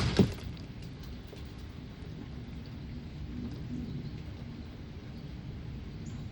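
A sudden loud clatter at the very start, then steady outdoor rain ambience: a low rumble with a light hiss and scattered faint ticks of drops.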